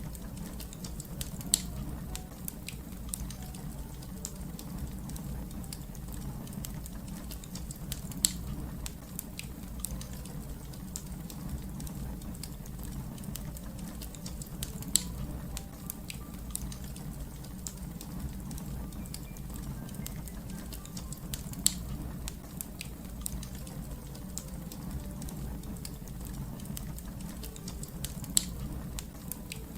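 Wood fire crackling: a steady low rumble under constant small ticks and snaps, with a louder sharp pop about every seven seconds.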